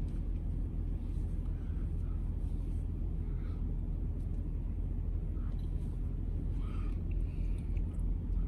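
Steady low engine rumble of a semi-truck, heard from inside the closed cab, with a few faint small handling sounds.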